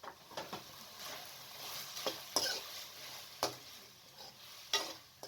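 Vegetables sizzling quietly in a pan, with a spoon knocking and scraping against the pan a handful of times as chopped tomatoes and onions are added and stirred in.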